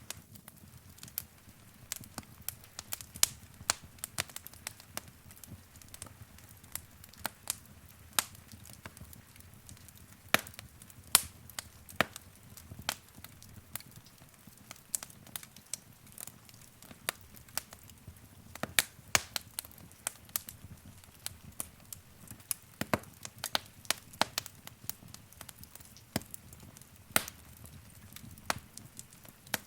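Wood fire crackling in a fireplace: irregular sharp pops and snaps, a few of them loud, over a steady low rush of the flames.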